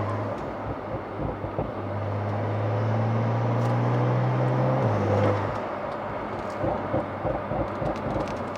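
Porsche 911 (992) Carrera Cabriolet's twin-turbo flat-six and tuned exhaust heard while driving. The engine holds a steady speed for about three seconds, then drops off about five seconds in. It then coasts amid road and wind noise, with a few sharp cracks from the exhaust on overrun, the pops of the ECU pop tune.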